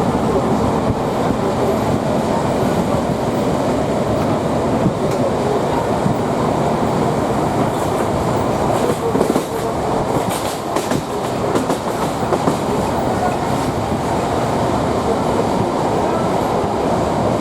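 D1 diesel multiple unit under way, heard from on board: a steady rumble of wheels and running gear on the track, with a run of sharp clicks from the wheels about halfway through.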